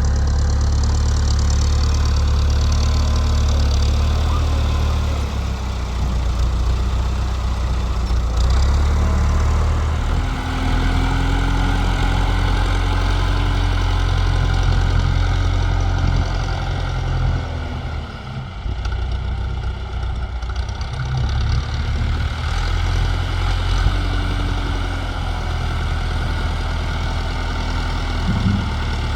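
Tractor engine running steadily, its pitch and level shifting a few times as it works, with a brief dip about two thirds of the way through.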